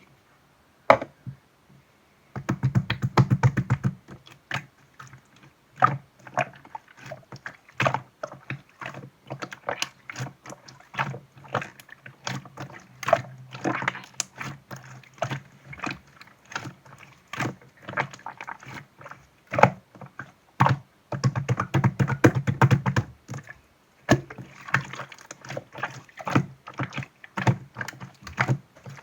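Clear green slime being squished and kneaded by hand: a steady run of wet clicks and pops from air trapped in the slime. There are two spells of heavier, fuller squishing, about two and a half seconds in and again about twenty-one seconds in.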